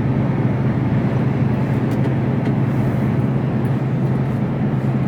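Mercedes Actros lorry heard from inside the cab while driving: a steady low engine drone with road and tyre noise underneath.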